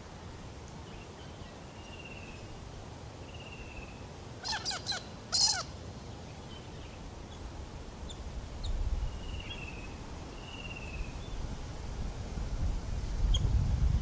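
Wild birds calling: a loud burst of three or four harsh calls about four and a half seconds in, with a few faint, thin, downslurred whistled notes scattered before and after. A low rumble builds near the end.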